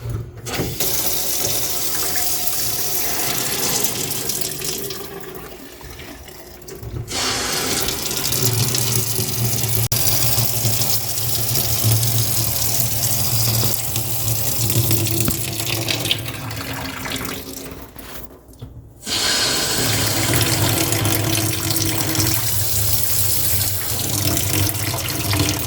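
Water running hard out of an opened valve on a water heater's hot-water side, drained off to relieve tank pressure after the supply has been shut off. The flow eases off about five seconds in, then surges back, and cuts out once more for a moment near the two-thirds mark before running on.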